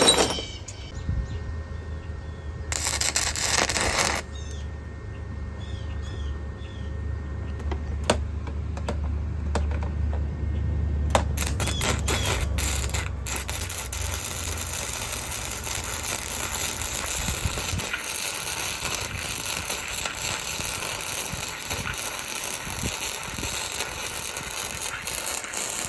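Welding arc crackling steadily with dense sharp pops from about eleven seconds in, welding a nut onto a broken exhaust bolt stub so it can be turned out. Before that, a low hum and a short burst of hiss about three seconds in.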